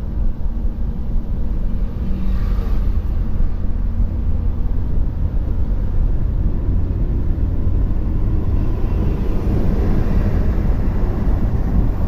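Intercity bus driving on the road: a heavy, steady low rumble of engine and tyres, with broader road noise swelling over the second half.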